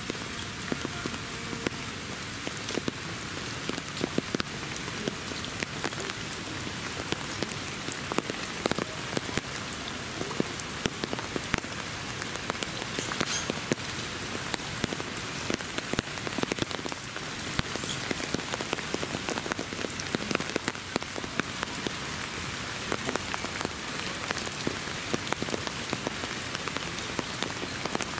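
Steady rain falling, with many sharp individual drop hits close to the microphone.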